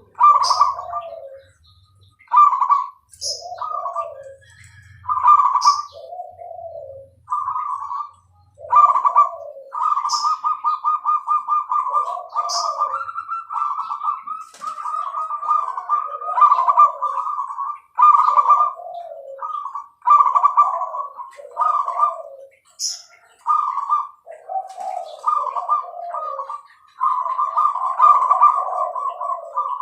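Zebra dove (perkutut) singing: repeated cooing phrases, some opening into quick rattling runs of notes, with short high chirps between them.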